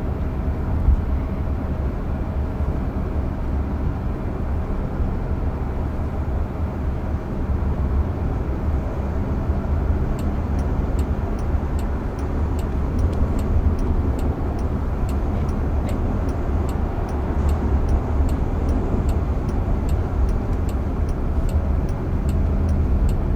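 Steady road and tyre rumble inside the cabin of a moving Waymo self-driving car. From about halfway through, a faint regular ticking comes in, about twice a second.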